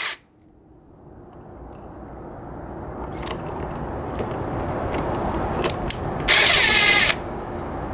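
Cordless impact driver sinking a 3/8-inch by 5-inch lag screw into wood. Its run cuts off right at the start, a few sharp clicks follow, and about six seconds in it hammers again in one short burst of under a second.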